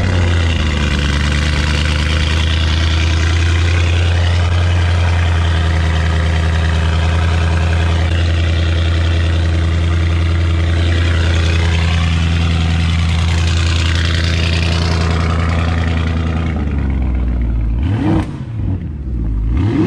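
Car engine, just started, running at a steady idle with a low, even drone; about seventeen seconds in it drops away, followed by two short rising blips near the end.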